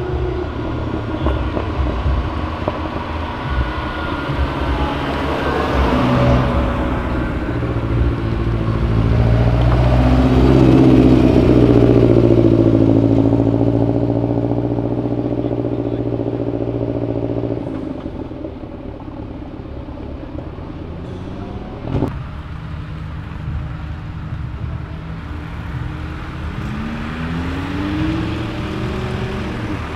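Cars driving slowly past with their engines running. The loudest is a deep, steady engine note in the middle that stops abruptly a little past halfway. A sharp knock follows, and near the end an engine rises in pitch as it accelerates away.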